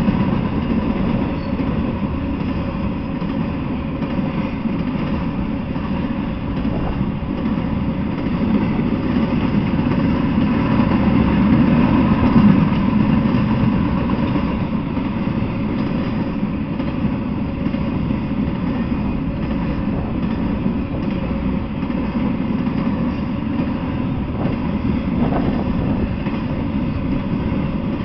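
Intermodal freight train rolling past at steady speed: a continuous rumble of steel wheels on the rails that swells a little near the middle.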